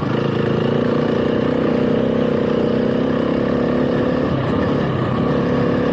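Motorcycle engine running steadily under power while riding, with a rush of wind noise.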